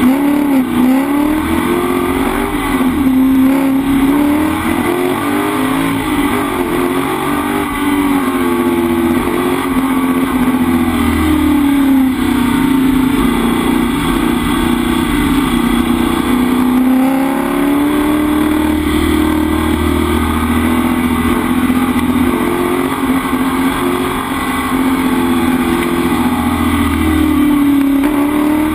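Ford XE Falcon race car's engine heard from inside the cabin, running hard under racing load. Its pitch climbs and drops again and again as the car changes gear and lifts for corners.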